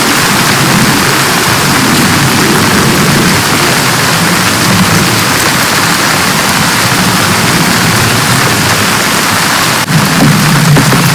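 Heavy rain pouring steadily, a loud, even hiss of water, with a brief click about ten seconds in.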